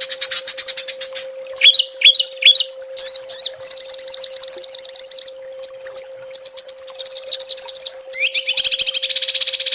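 Small songbird singing fast, high 'tembakan' trills: a rapid rattling trill, three quick upward-sweeping notes around two seconds in, then long dense trills broken by short pauses, with a very fast continuous trill from about eight seconds in. A steady faint hum runs underneath.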